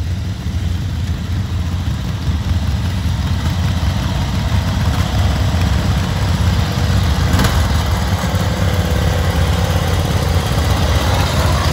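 Engine of a modified riding-mower rock crawler running steadily at low speed while crawling, a dense low exhaust note without pauses.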